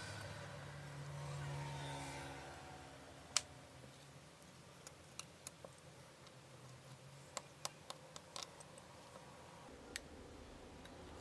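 Small sharp clicks and ticks of hand tools against a smartphone's parts, about a dozen spread out, one louder click a few seconds in, over a faint low hum.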